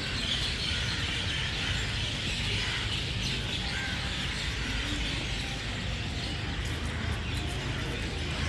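A flock of parrots calling together, a dense chatter of many overlapping chirps, over a steady low rumble.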